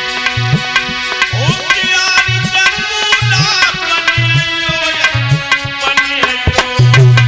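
Devotional music with tabla playing a low bass stroke about once a second under sustained held chords, and a melody line that glides in pitch joining about a second and a half in.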